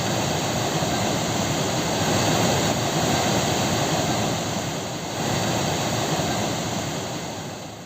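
Rushing water: a steady, even rush of falling water that eases off a little near the end.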